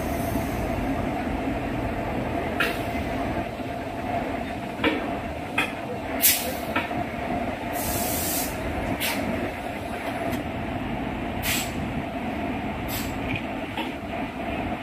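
Express passenger train's steady rumble and hum, with scattered sharp clicks and knocks and a short hiss about eight seconds in.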